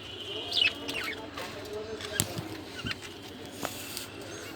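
Bazigar pigeons stirring in their loft: a few wing flaps and sharp taps, with short, high, falling bird chirps in the first second.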